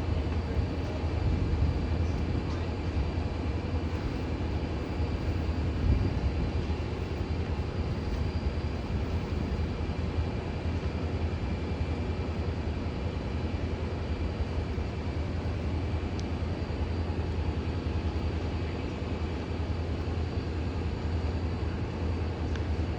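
Diesel locomotive of a passenger train idling with a steady low drone.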